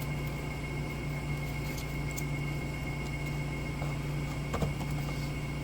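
Steady background hum of a running fan or machine, with a constant high whine over it, and a faint click or two of small parts being handled about two-thirds of the way through.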